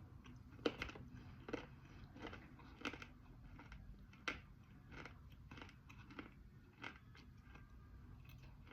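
Chewing a piece of crunchy edible Punjab clay close to the microphone: a run of sharp crunches every half second or so that thin out near the end.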